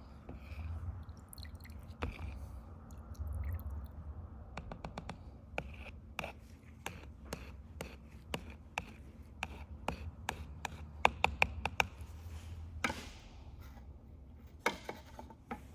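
Paint being stirred by hand in a mixing cup, the stirrer tapping and scraping against the cup's sides in a run of irregular clicks. The clicks come quickest and loudest in the latter half.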